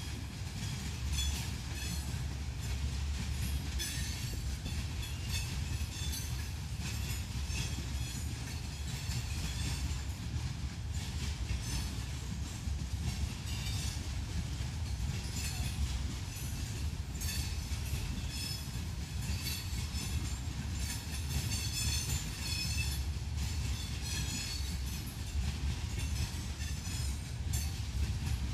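Herzog ballast hopper cars of a rock train rolling past, a steady rumble of steel wheels on rail with intermittent high-pitched wheel squeal coming and going.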